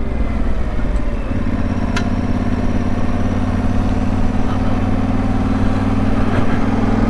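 Yamaha Ténéré 700's parallel-twin engine running at a steady pitch while riding, over a rush of wind and road noise; the pitch settles about a second in.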